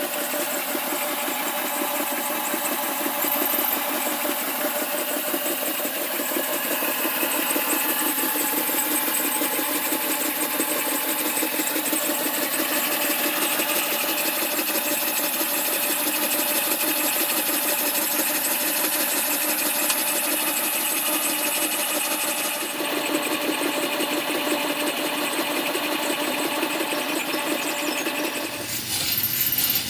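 A small model engine running steadily at a fast, even beat, with no deep bass.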